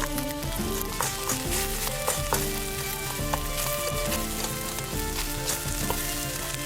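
Food sizzling and frying in an iron frying pan over a campfire as it is stirred, with a few sharp clicks.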